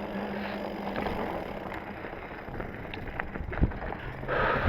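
Mountain bike, a Specialized Stumpjumper, rolling over a rocky, rooty trail: tyre and trail noise with wind on the microphone, and a couple of sharp knocks from the bike going over rocks about three seconds in.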